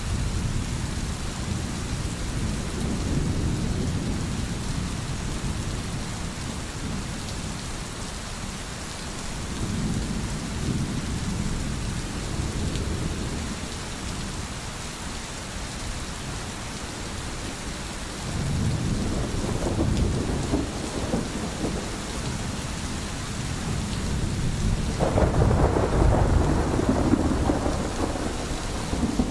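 Steady heavy rain with rolling thunder that swells and fades several times, the loudest roll near the end.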